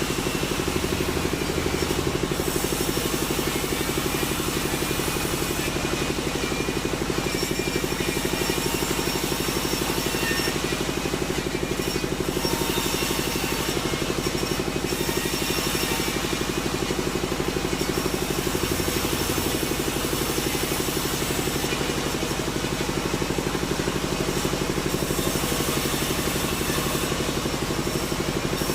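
Sawmill machinery running steadily: an even engine-like drone with no pauses and no clear change in load.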